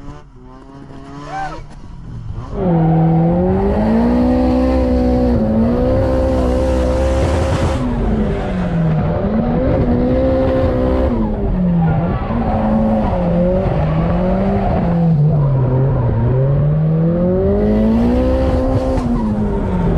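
Drift car engine heard from inside the cabin, revving up and dropping back again and again as the car slides through a string of corners, with tyre squeal. It gets much louder about two and a half seconds in and stays loud.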